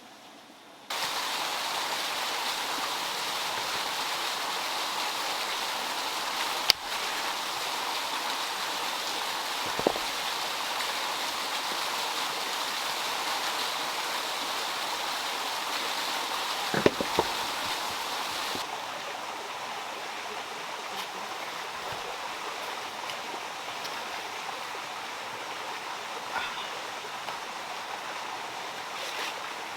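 Running water rushing steadily, starting abruptly about a second in and becoming a little quieter past the middle, with a few sharp knocks along the way.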